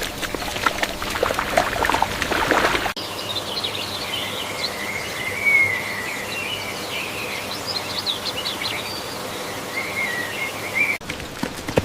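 A short stretch of clicking, splashing noise cuts off abruptly to small birds chirping and warbling in rapid high notes for several seconds, which stop with another abrupt cut near the end.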